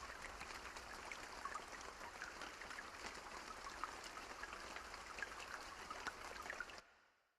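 Steady rain with scattered drops ticking, which fades out quickly into silence near the end.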